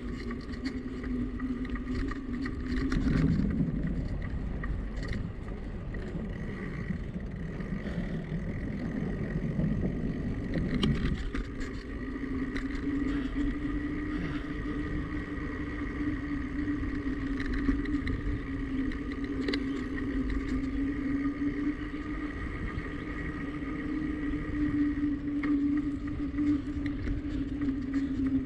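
Riding noise from a bicycle on a paved road: a steady hum with a low rumble and wind on the microphone, the hum wavering in pitch during the first third and then holding steady.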